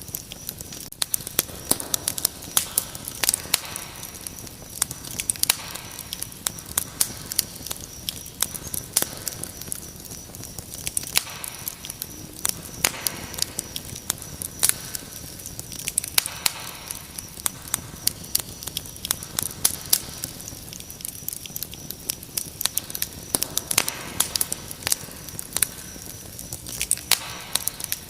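Wood fire crackling, with frequent irregular sharp pops and snaps, over a steady high-pitched cricket trill.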